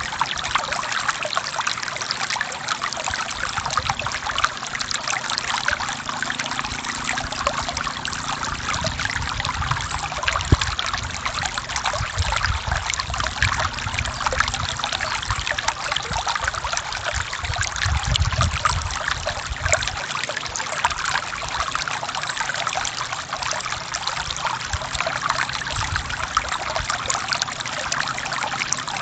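A forest stream flowing and splashing over rocks: a steady rush of trickling, babbling water, with a deeper rumble swelling and fading near the middle.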